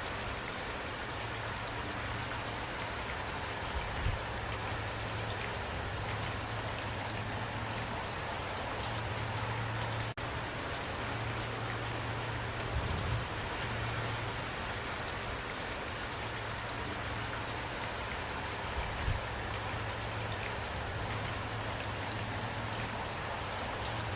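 Steady rain falling, with a few dull low thumps mixed in and a brief dropout about ten seconds in.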